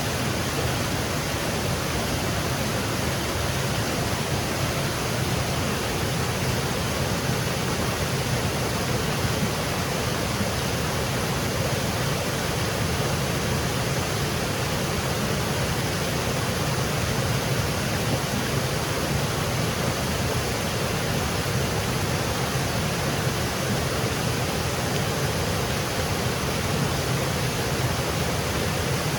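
Small woodland waterfall, water cascading over rocks in a steady, unbroken rush.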